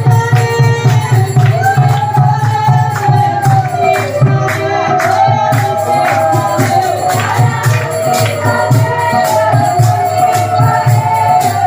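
Hindu devotional bhajan: voices singing a sliding melody over jingling metal percussion and a low drum beat keeping a steady rhythm.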